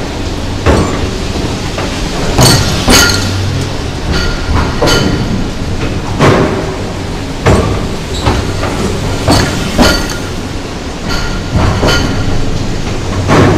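Talgo 'Strizh' train passing slowly through a gauge changer that resets its wheels from 1435 mm to 1520 mm gauge. About a dozen metallic clanks at irregular intervals, each ringing briefly, over a steady low hum.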